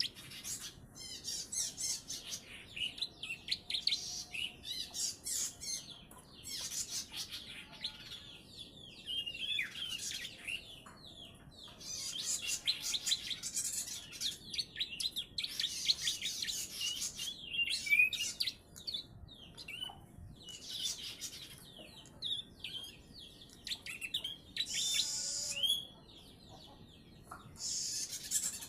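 A young prenjak (prinia), about three months old, singing in rapid bursts of high chirps and trills. Its song is filled with phrases copied from the ciblek (bar-winged prinia).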